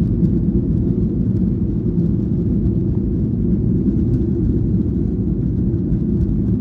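Steady low rumble of jet airliner cabin noise in flight: engines and airflow heard from inside the cabin.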